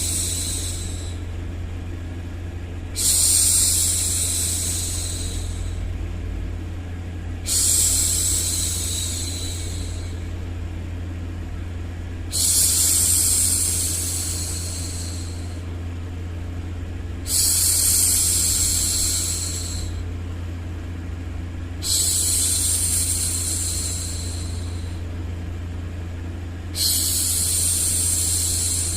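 A woman's voice shushing, "shhh", to hush a baby: a long shush that starts sharply and tails off, about every four and a half seconds, six times, over a steady low hum of white noise.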